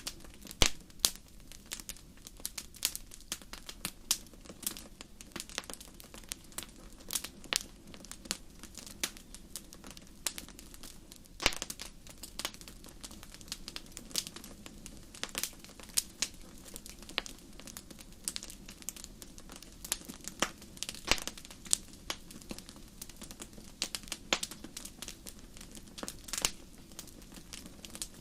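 Fireplace fire crackling: irregular sharp pops and snaps, several a second and varying in loudness, over a low steady rumble of the flames.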